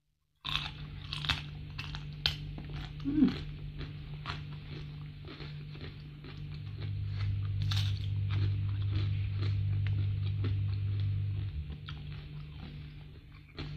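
Close-miked chewing and crunching of food: raw leafy greens and fried salted fish being bitten and chewed, with many short crisp crunches. A steady low hum runs beneath and grows louder for a few seconds past the middle.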